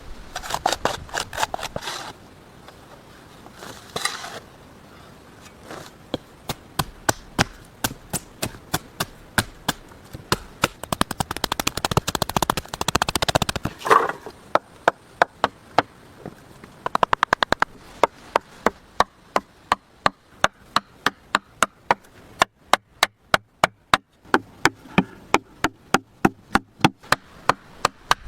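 Wood being chopped with an axe or hatchet: a long series of sharp, regular strikes, about two a second, with short stretches of scraping and rustling between them.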